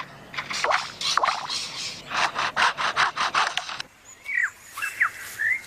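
Superb lyrebird mimicking foresters' chainsaws at work: a run of rapid rasping strokes, about four or five a second. About four seconds in it switches to short whistled notes, each sweeping down or up in pitch.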